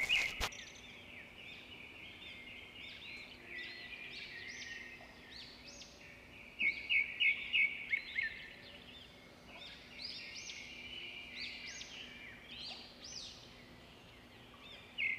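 Small birds chirping and singing, many short rising-and-falling whistled notes overlapping one another, with a louder run of quick repeated notes about seven seconds in.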